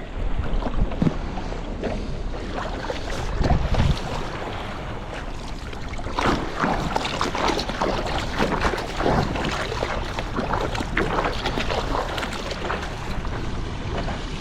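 Water splashing and lapping around a rescue board as it is paddled on calm sea water, with steady wind rumble on the microphone. The splashes grow busier about halfway through.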